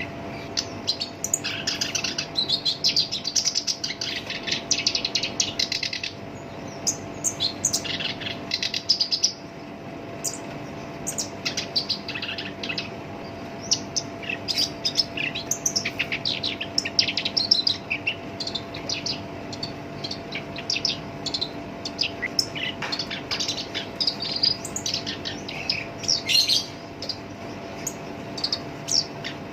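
Black-browed reed warbler singing a fast, harsh, chattering song: a long continuous run in the first few seconds, then shorter bursts of phrases throughout. A faint steady hum lies underneath.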